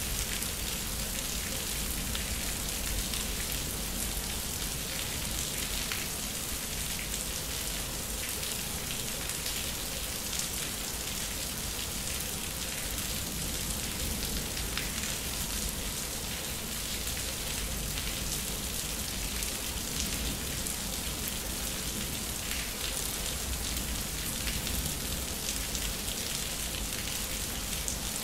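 Steady rain falling on a concrete backyard: an even hiss with a dense patter of small drop ticks and no thunder clap.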